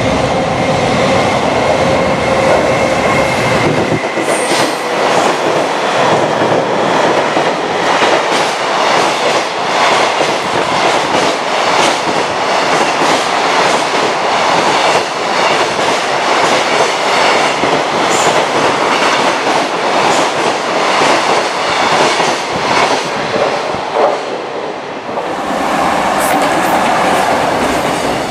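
A container freight train passing close at speed: a continuous rush of wheel and rail noise with the repeated clickety-clack of wagon wheels over rail joints. About 25 seconds in the sound dips briefly and changes, and another container train is passing.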